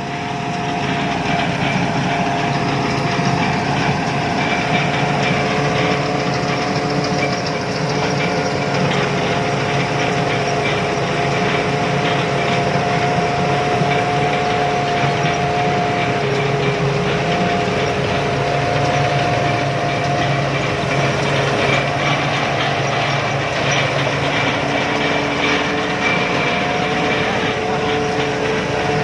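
Combine harvester running steadily: its engine and machinery make a constant rumble with a high, steady whine held over it.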